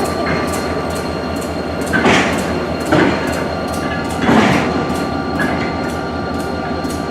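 Railroad train moving slowly, with a steady rumble and a regular clicking of about four ticks a second. Three louder rushing surges come about two, three and four and a half seconds in.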